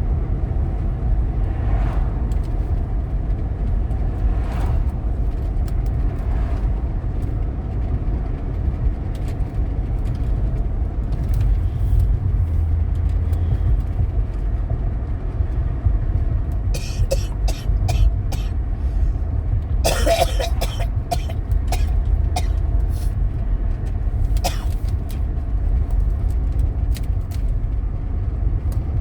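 Car road noise heard inside the cabin while driving: a steady low rumble, with a few short sharp sounds about two-thirds of the way through.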